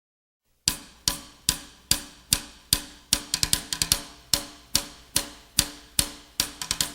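A drum played on its own in a steady beat, about two and a half strikes a second with a few quick fills, starting after a moment of silence: the percussion intro of a live song.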